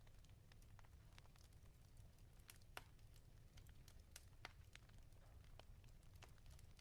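Faint wood fire crackling in a fireplace: irregular small pops and snaps over a low steady rumble, with two sharper pops near the middle.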